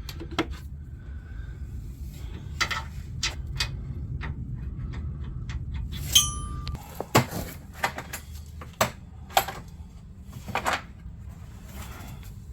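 Metal hand tools clinking and knocking against each other as they are handled and set down, with one bright ringing ping about six seconds in. A low steady hum runs underneath until about seven seconds in.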